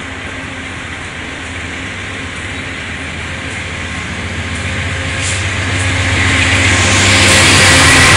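Shoreline East commuter train pulling out, its passenger cars rolling past with a steady rumble, and the diesel engine of the P40DC locomotive pushing from the rear growing louder as it nears over the last couple of seconds.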